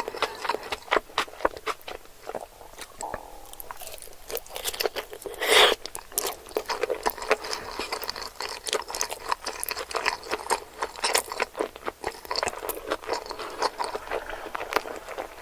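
Close-miked chewing of sushi: a dense run of wet, crackly mouth clicks and bites, with one longer, louder burst about five and a half seconds in.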